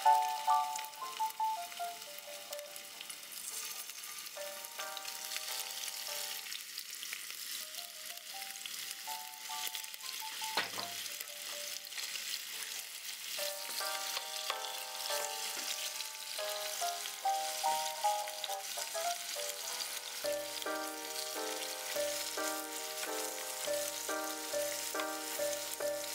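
Chicken breast pieces sizzling as they fry in oil in a nonstick frying pan, turned now and then with a spatula. Soft background music with a melody plays underneath, and a bass line comes in about two-thirds of the way through.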